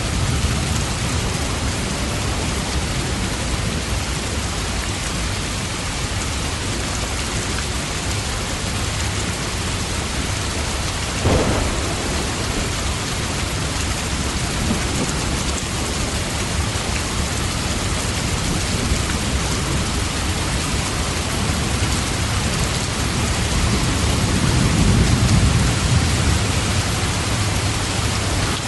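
Steady heavy rain hissing without a break. About eleven seconds in there is a sudden sharp crack of thunder, and near the end a low rumble of thunder swells and fades.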